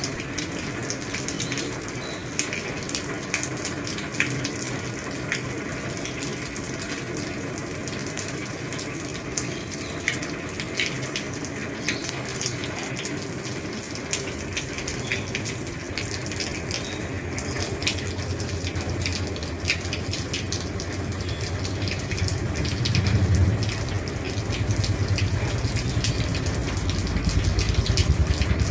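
Steady rain on an old roof, a dense hiss with many separate drops ticking sharply. A low rumble swells in during the second half and grows louder toward the end.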